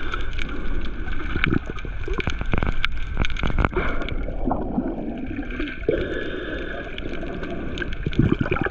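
Water sloshing and gurgling close to the microphone, with scattered sharp clicks and knocks.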